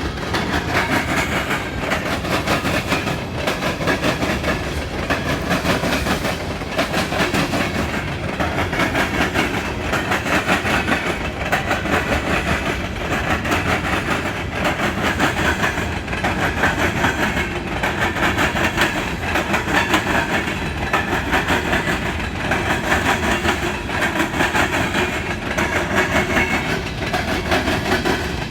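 Empty coal hopper cars of a freight train rolling over railroad diamond crossings, the wheels banging over the rail gaps in a continuous rapid rhythm of impacts.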